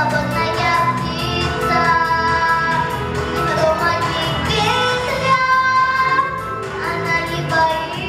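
A child singing a song in long held notes over an instrumental backing track with a steady beat.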